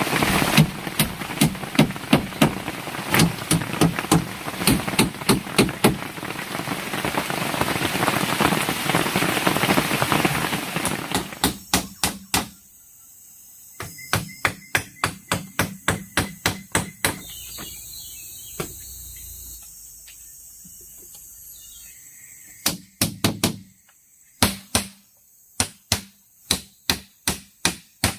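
Repeated sharp tool strikes on bamboo, about two to three a second, pausing for a few seconds past the middle and then resuming. A loud steady hiss lies under the first part and cuts off suddenly about twelve seconds in.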